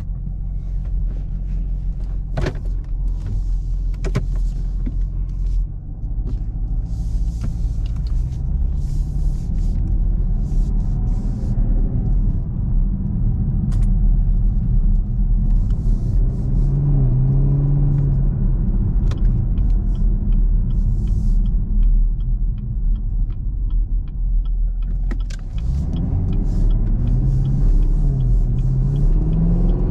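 Chevrolet Camaro 2SS's 6.2-litre V8 running at a low, steady rumble. Its note rises and falls a few times about halfway through and again near the end, with a few sharp clicks early on.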